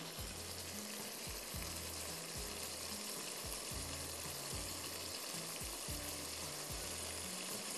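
Chopped tomatoes cooking in oil in a non-stick pan, sizzling steadily while white vinegar is poured in. Soft background music with a regular low beat plays underneath.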